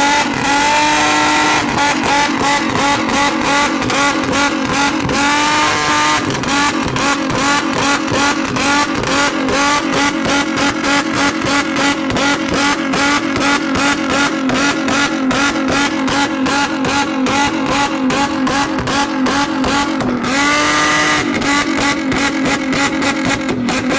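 Nissan 350Z's 3.5-litre V6 through a loud aftermarket exhaust, held at high revs with rapid popping and crackling from a retune made to shoot flames. The revs drop and climb back about 5 seconds in and again near 20 seconds.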